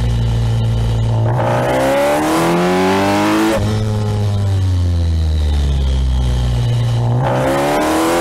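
Kawasaki Ninja 1000SX's inline-four engine heard from on board: the revs climb hard under acceleration from about a second in, fall away as the throttle closes, and climb again near the end. Wind rush rises along with each burst of speed.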